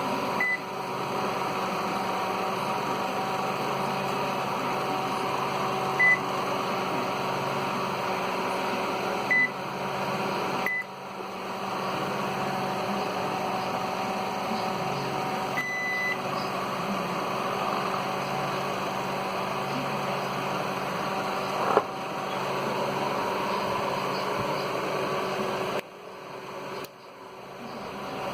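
Short, high single-pitched beeps from a microwave oven control board's buzzer, about six of them, one a little longer, over a steady electrical hum. There is one sharp click about two-thirds of the way through, and the hum dips out briefly twice.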